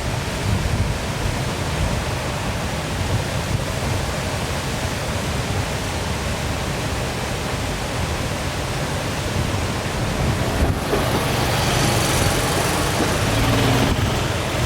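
Waterfall rushing steadily, a constant wash of falling water with a deep rumble underneath. It swells louder and hissier for a few seconds near the end.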